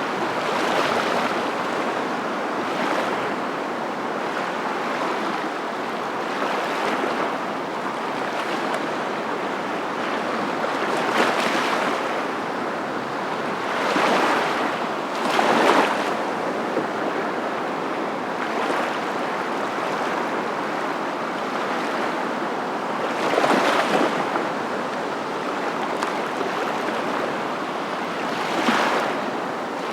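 Waves washing in: a steady rush of surf, with louder surges every few seconds as waves break.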